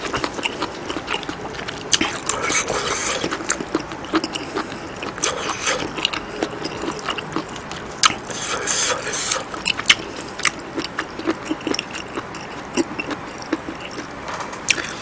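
Close-miked chewing of a mouthful of abalone curry: many wet mouth clicks and smacks, with a few short rustling patches as a plastic-gloved hand pulls apart and lifts strands of green onion kimchi.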